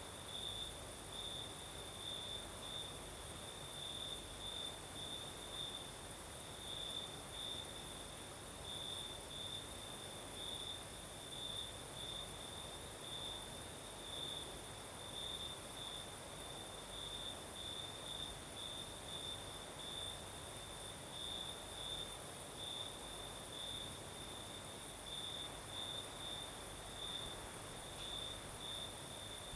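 Crickets chirping in a steady run of quick pulses, over a continuous higher-pitched insect trill.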